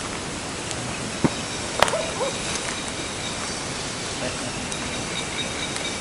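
Short two-note hooting call from an owl about two seconds in, over a steady outdoor hiss with faint high insect tones. Two sharp clicks come just before the call.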